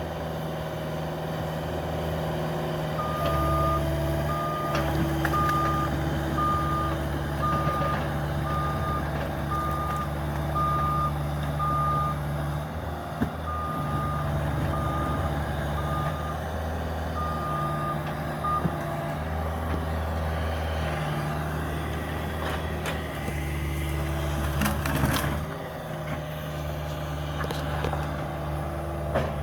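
Cat 305 mini excavator's diesel engine running under varying load while its travel alarm beeps about once a second, then falls silent after about 18 seconds. A few sharp clatters of debris come near the end.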